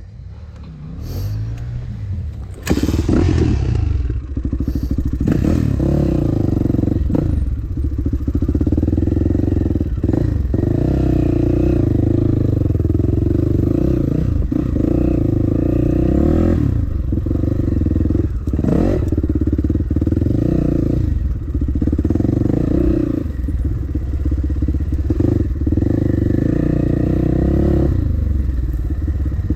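Dirt bike engine running under way, its revs rising and falling over and over as the throttle is worked through the gears. It is quieter at first and turns suddenly louder about three seconds in.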